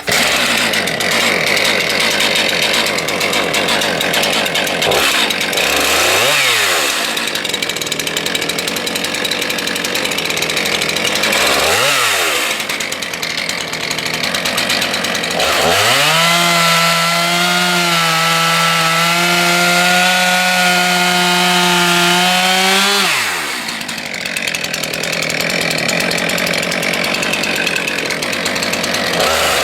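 STIHL MS 441 C-M two-stroke chainsaw running at full throttle, cutting wood. The engine note dips and picks back up twice, then holds steady and high for several seconds before dropping and climbing again near the end.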